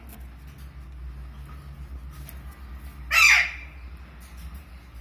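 Alexandrine parakeet giving one short, harsh squawk about three seconds in, over a faint steady low hum.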